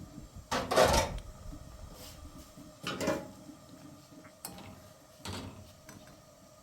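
A few separate brief clatters and knocks of household objects being handled: one about a second in, another about three seconds in and a softer one about five seconds in.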